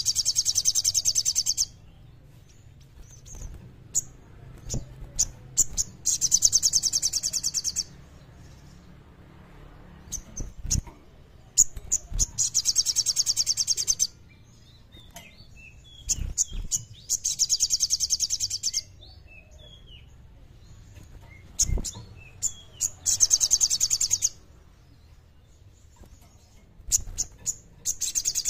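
Sogon bird singing a rapid, high trill in bursts of about two seconds, six times, with short chirps between the bursts.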